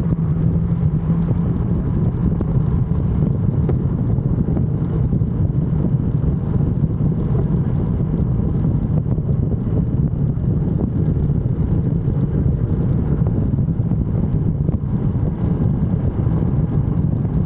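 A motor vehicle running at a steady speed: a steady low drone of engine and road noise, mixed with wind noise on the microphone, with no revving.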